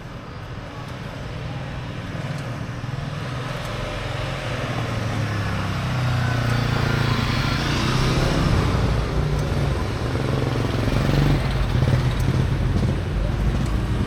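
A road vehicle's engine running close by, getting louder over the first several seconds and then holding steady.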